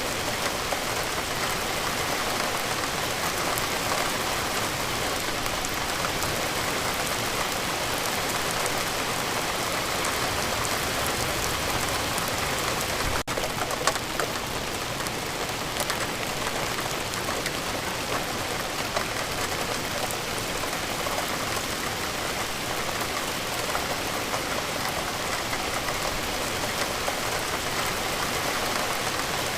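Steady rain falling, an even hiss of drops with no pause, briefly dipping and then spiking for a moment near the middle.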